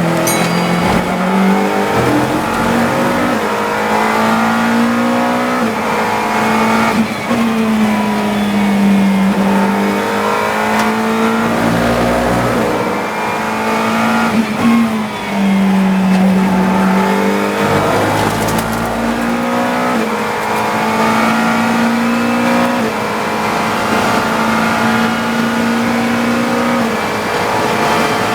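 GT3 race car engine heard from on board at racing speed, its pitch climbing through upshifts and dropping back again and again under braking and downshifts. Two short low rumbles come about twelve and eighteen seconds in.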